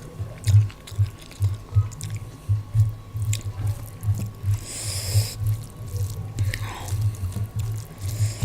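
Close-miked chewing of rice and daal, with a low thud about two to three times a second and wet mouth clicks between, and a brief hissy sound about five seconds in.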